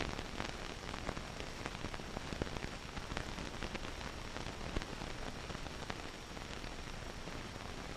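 Hiss and crackle of an old film soundtrack: a steady even noise with scattered small clicks and pops, and no engine or voice.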